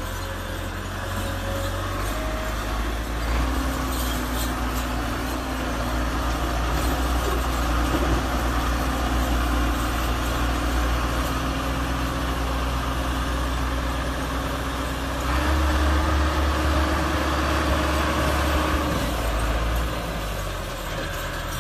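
Massey Ferguson tractor's diesel engine running steadily, growing louder about three-quarters of the way through and easing back shortly before the end.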